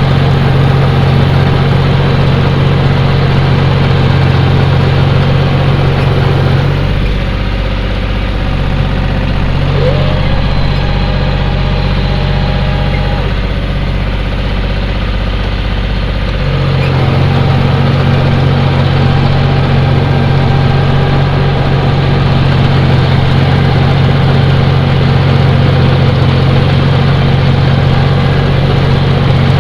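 John Deere tractor's diesel engine running steadily. For about ten seconds in the middle its note changes and drops a little in level, then it returns to the same steady running.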